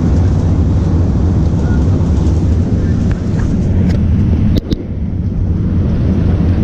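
Airbus A380 during its landing: a loud, steady low rumble of engines and rushing air, with two sharp clicks close together about four and a half seconds in.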